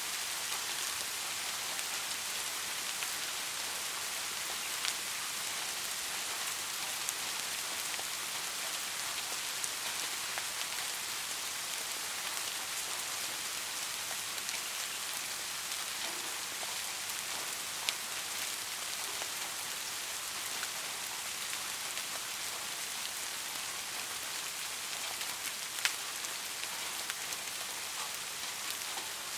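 Steady rain falling, an even hiss with scattered sharper drops ticking now and then. The rain is gentle and constant.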